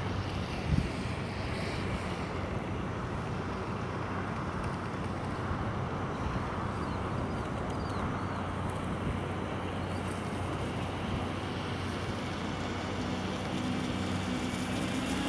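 Steady outdoor noise of wind and distant traffic, with the faint, wavering whine of a radio-controlled race boat's brushless electric motor out on the lake about halfway through. There is a short thump about a second in.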